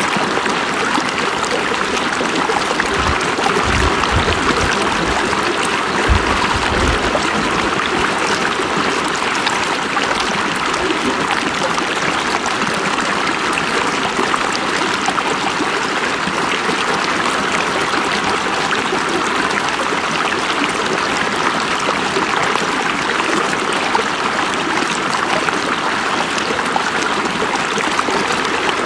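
River water flowing in a steady, even rush, with brief low rumbles about three and six seconds in.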